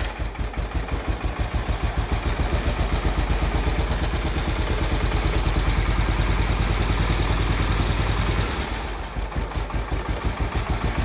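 Case yard tractor's 10 hp Kohler single-cylinder engine running with an even pulsing exhaust beat, sagging briefly about eight seconds in. It runs but won't take throttle well, which the owner puts down to the carburettor needing a rebuild kit.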